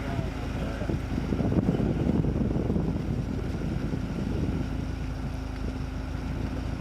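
An off-road vehicle's engine running steadily, with a low rumble and a faint steady hum, and wind noise on the microphone.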